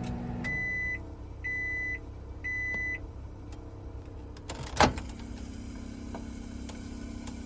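Microwave oven beeping three times to signal that it has finished heating, followed a couple of seconds later by a single sharp clunk.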